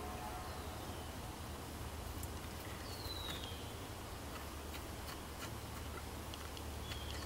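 Quiet outdoor background with a low steady hum. A bird gives a few short whistles that fall in pitch, the clearest about three seconds in, and there are a few faint light clicks from hands working at the thermostat housing.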